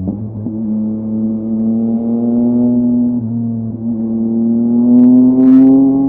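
Yamaha MT-09's three-cylinder engine through a LeoVince LV Race exhaust, pulling steadily under load, rising in pitch, with a sudden drop in pitch at an upshift about three seconds in before it climbs again. A short hiss comes about five seconds in.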